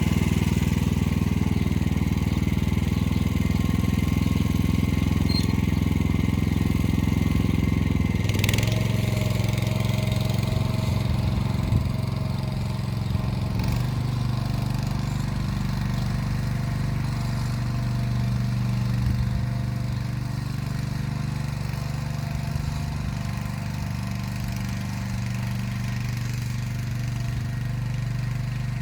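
Motor Sich walk-behind tractor's engine running steadily. About eight seconds in its note changes and settles into a slightly quieter, steadier tone.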